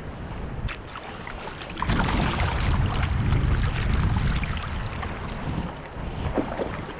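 Kayak on the river: moving water with wind noise on the microphone, swelling louder from about two seconds in for a few seconds, with a few light knocks.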